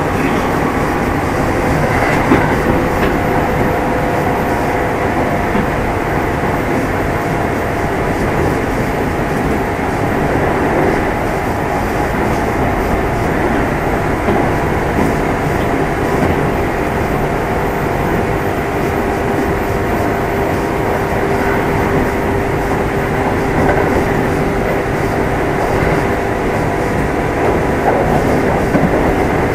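Inside a Kintetsu 2610 series motor car running at speed: a steady rumble of wheels on rail, with rail-joint clatter and a few faint steady tones over it.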